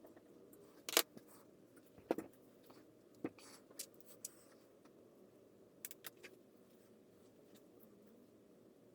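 Scattered small clicks and taps of the antique fan's parts being handled and fitted during reassembly: about eight short, sharp knocks, the loudest about a second in, with a cluster of three near the middle.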